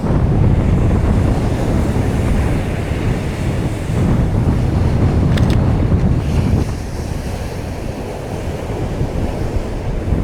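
Strong wind buffeting the microphone over surf breaking on the beach, the gusts easing about two-thirds of the way through. A faint double click about five seconds in.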